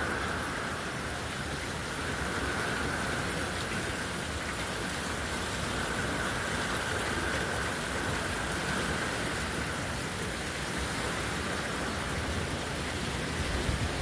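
Heavy hurricane rain pouring steadily: a dense, even hiss of rain with no letup.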